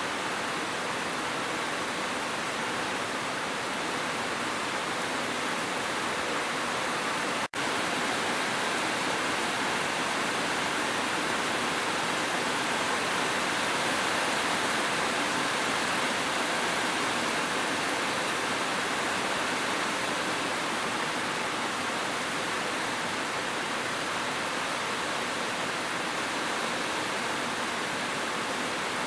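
Steady rain, a dense even hiss with no separate drops standing out. It cuts out for an instant about seven seconds in, then carries on unchanged.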